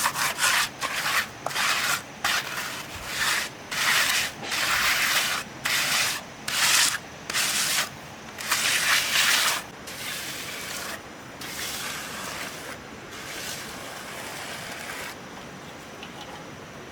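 A hand tool scraping through gritty cement-and-sand mortar in quick, irregular strokes. After about ten seconds the strokes turn softer and run together, and they fade near the end.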